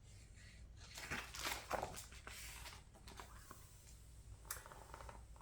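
Faint rustling of a picture book's paper pages being handled and turned, with a few soft clicks.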